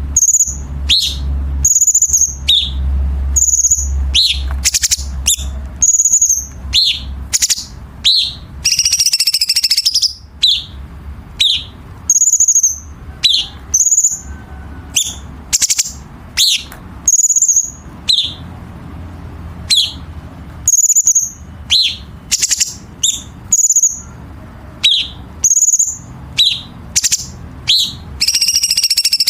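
Cucak cungkok singing: a stream of short, sharp, high notes, about one a second, each dropping quickly in pitch. There are two dense, harsh rattling bursts, one about nine seconds in and one near the end.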